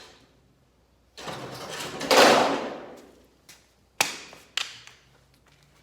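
A removed aluminium caravan cladding panel being handled, with a rush of rattling and scraping that swells and dies away over about two seconds. Two short sharp knocks follow near the end.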